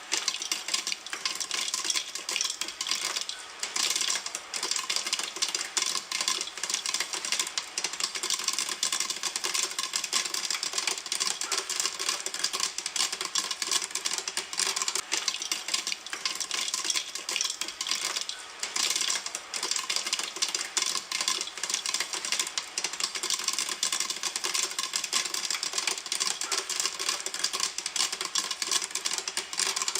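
Popcorn kernels popping in a pan, a dense, unbroken run of rapid pops and crackles.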